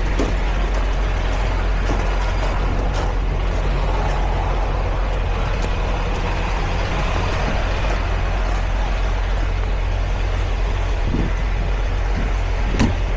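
A semi truck's diesel engine running steadily, heard from inside the cab as a constant low hum under broad noise. A single sharp click comes near the end.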